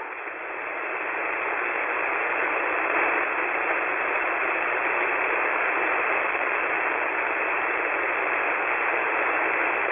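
Steady hiss of HF radio static on an air traffic control frequency, with no voice; it swells up over the first second and then holds even.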